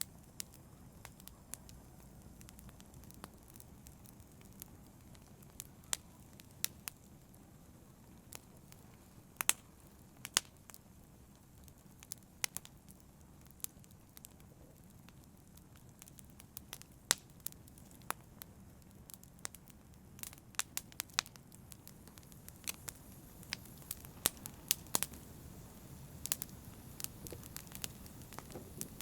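Campfire burning: a low steady rumble of flames under irregular sharp crackles and pops from the burning wood, a few of them loud, the pops coming more often in the second half.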